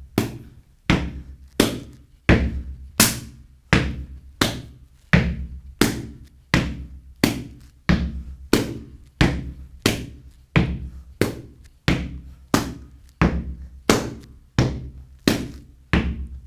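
Gumboot dance percussion: hands slapping the inner sides of rubber boots in a steady beat, each strike with a deep thud, about three strikes every two seconds.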